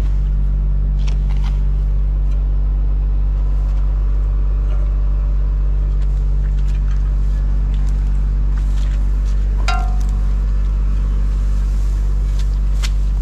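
A farm machine's engine running steadily with a low, even hum. A few faint clicks and a brief squeak about ten seconds in sound over it.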